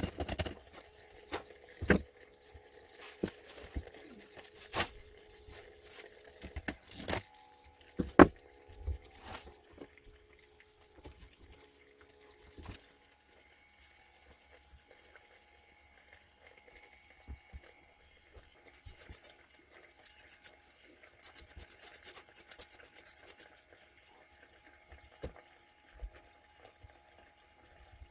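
Scattered sharp clicks and knocks of small parts being handled on a workbench, busiest in the first half, then a faint steady whine with quick light ticking.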